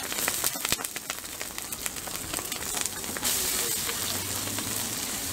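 Eggs and bean sprouts frying on a hot flat-top griddle: a steady sizzle full of small crackles.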